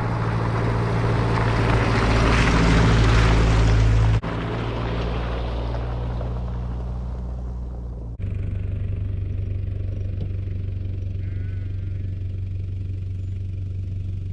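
Toyota Land Cruiser Prado driving off-road, its engine running as a steady low drone. A loud rushing noise rides over it for the first four seconds. The sound cuts abruptly about four and eight seconds in, as three separate shots of the engine follow one another.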